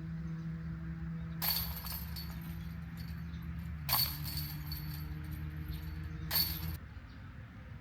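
Disc golf basket chains jangling three times as putted discs strike them, over a steady low hum that stops near the end.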